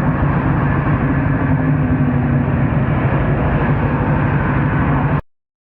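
Steady engine and road noise from a moving vehicle, with a low, even engine drone under a dense rushing noise. It cuts off abruptly about five seconds in.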